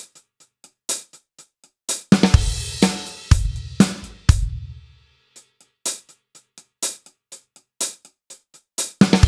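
Drum kit played as a practice demonstration: light, even strokes on the closed hi-hat, broken about two seconds in by a few loud hits with bass drum and ringing cymbal, then the light hi-hat strokes again and one more loud hit near the end.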